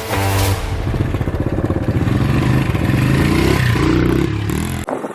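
Small Honda pit bike engine running hard and revving up and down as it is ridden, with an abrupt cut to a quieter sound near the end.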